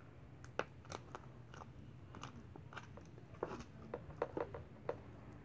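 Kinetic sand slime being poked and squished by hand, giving an irregular scatter of small, faint crackles and pops.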